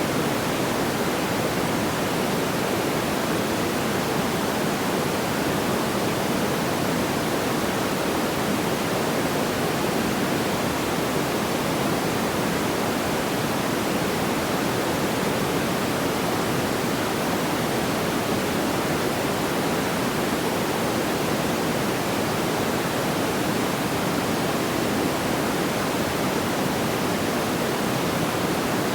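Steady, even rushing noise like pink noise, unchanging throughout, with no crackles or pops standing out.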